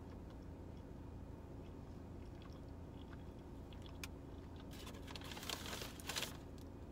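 Close-up chewing of a doughnut, then a brown paper bag crinkling for about a second and a half near the end, the loudest sound, over a steady low hum.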